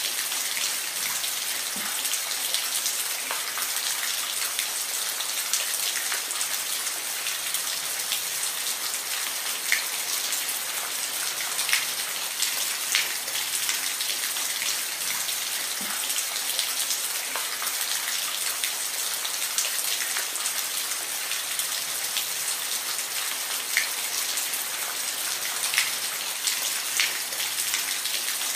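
Steady rain falling, an even hiss with many distinct drops striking a surface close by, scattered irregularly.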